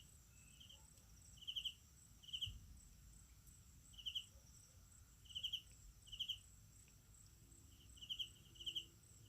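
Night insects: a cricket giving short, pulsed chirps, often in pairs, about ten in all, over a steady high-pitched insect trill. Faint.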